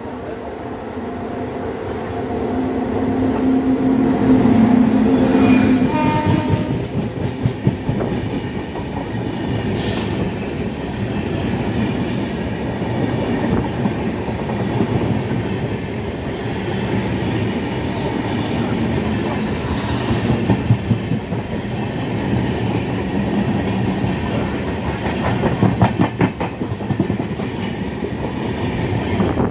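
Railway train running, its wheels clattering over the rail joints in a steady clickety-clack. A low horn sounds for a few seconds near the start.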